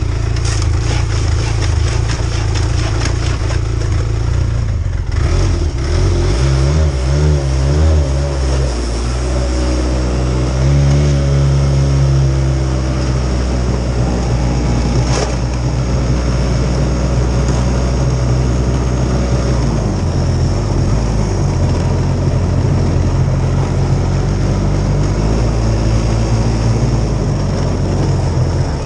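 Arctic Cat TZ1 Turbo snowmobile's turbocharged three-cylinder four-stroke engine running after a cold start at −27 °C. It idles steadily, with its speed rising and falling a few times, then settling lower about two-thirds of the way in.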